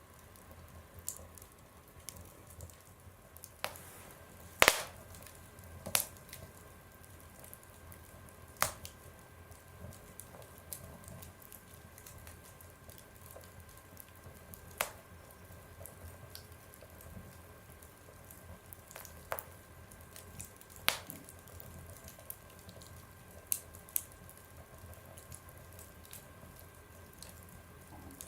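Fire burning in a stove, crackling with irregular sharp pops over a low hiss, the loudest pop about five seconds in.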